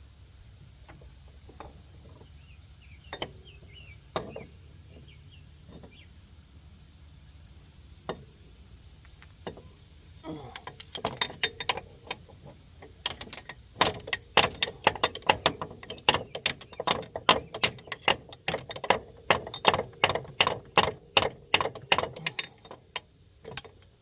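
Hand ratchet wrench clicking as a bolt is turned while the ATV's CV axle and hub are taken apart: a few scattered clicks and knocks at first, then from about ten seconds in a long run of quick, loud clicks, about three a second, that stops shortly before the end.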